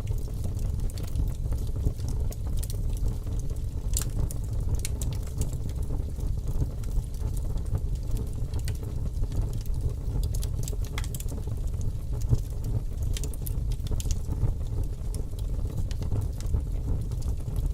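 Fire crackling: a steady low rumble with sharp pops at irregular intervals.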